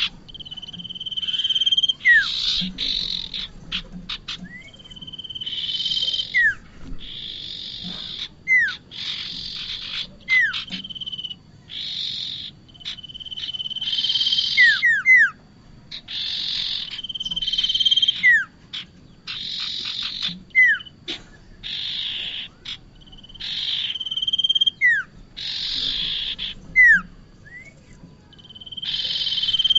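Prinia (prenjak) calling over and over, played as a bird lure: a held whistled note followed by a harsh buzzy rasp, repeating about every two seconds, with short sharp downslurred chips in between.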